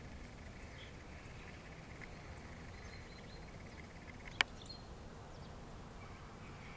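Faint outdoor background with a few soft, high bird chirps, and a single sharp click a little over four seconds in.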